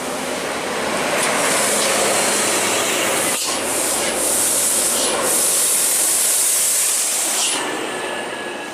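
A large truck passing close by on the road, a loud steady rush of engine and tyre noise with a bright hiss that eases off near the end.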